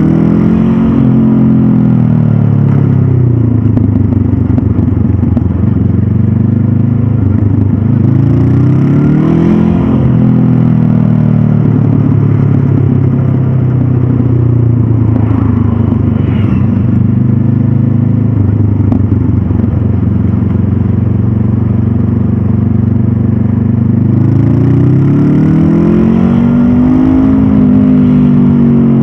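Stock 2022 Honda CB500F's parallel-twin engine, heard from on the bike. The revs rise and drop back three times: near the start, about nine seconds in, and again near the end. In between the engine holds a steady pitch.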